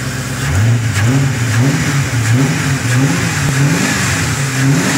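Ford Crown Victoria Police Interceptor's 4.6 V8 idling, then revved in about half a dozen quick blips, each a short rise and fall in pitch, from about half a second in.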